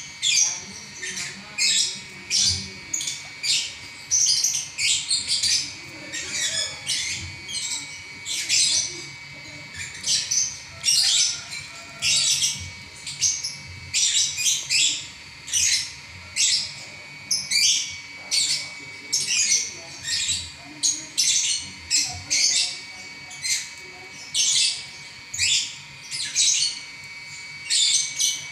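Lovebird singing nonstop (ngacor): a continuous stream of high-pitched chattering, squeaky phrases, about one to two a second, with no pause.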